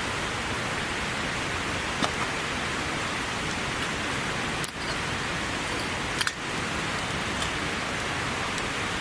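Heavy downpour falling steadily, with a couple of sharper drip strikes about two and six seconds in.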